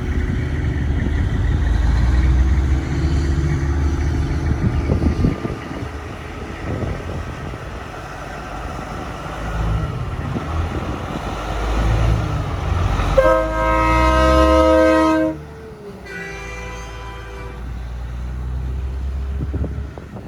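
Heavy truck engine rumbling for the first few seconds. Later a semi truck's air horn sounds a loud multi-note chord for about two seconds and cuts off sharply, followed by a fainter horn tone a second later.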